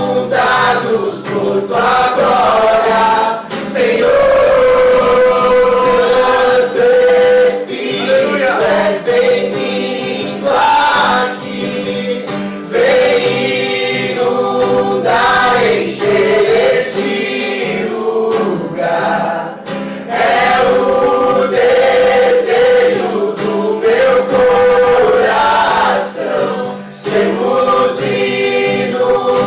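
Several voices singing a Portuguese-language worship song together, accompanied by a strummed acoustic guitar.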